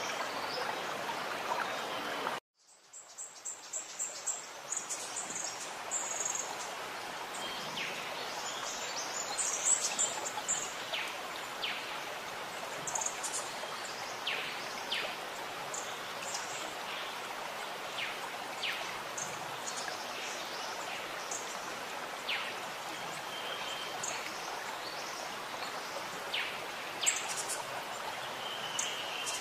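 Birds chirping in short, scattered calls over a steady rushing background noise. The sound cuts out suddenly about two and a half seconds in, then fades back up.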